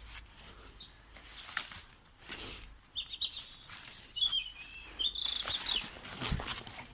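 A small bird chirping in short high calls, a few about three seconds in and a longer run from about four to six seconds, over scattered light knocks and crunches.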